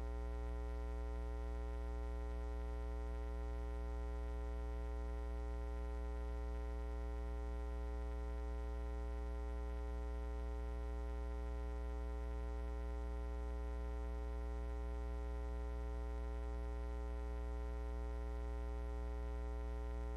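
Steady electrical mains hum with a buzzy stack of overtones, unchanging in pitch and level: the sign of electrical interference such as a ground loop in the audio feed.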